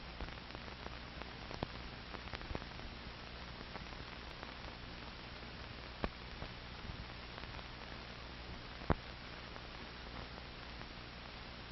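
Old film soundtrack noise: a steady hiss with a low mains hum, broken by scattered clicks and pops, the sharpest about six and nine seconds in.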